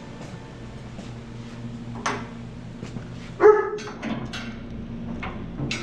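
A dog barking: a few short barks, the loudest about halfway through, over a steady low hum.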